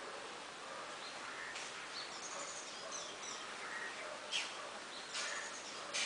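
Small birds chirping over a steady background hiss. Their short, sharp chirps come several times from about a second and a half in, the loudest near the end.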